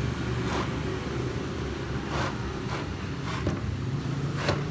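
A handful of short clicks and knocks from the Hitachi aluminium-cutting miter saw being handled, over a steady low rumble.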